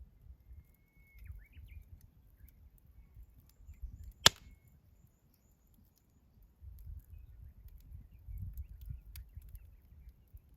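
Firewood in a campfire crackling with faint scattered ticks, and one sharp, loud pop a little over four seconds in, over a low uneven rumble.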